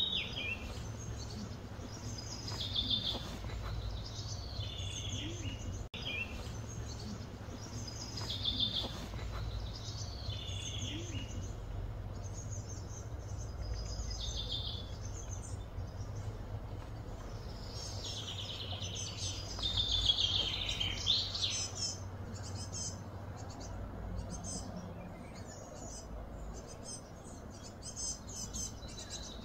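Small birds chirping in short repeated phrases, busiest about twenty seconds in, over a steady low rumble.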